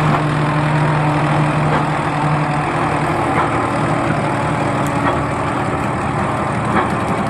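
Tractor engine running steadily, with a low hum that drops away about two and a half seconds in, leaving a rougher mechanical rumble.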